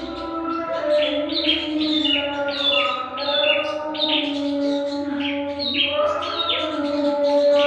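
Small songbird calling in a steady run of quick, falling chirps, about two to three a second, over a lower steady droning tone that shifts pitch about six seconds in.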